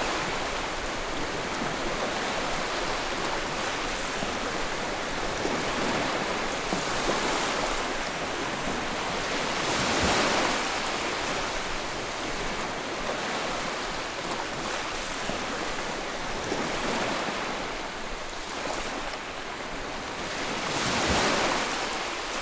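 Sea waves washing on a shore: a continuous surf hiss that swells and ebbs, with louder breaking waves about ten seconds in and again near the end.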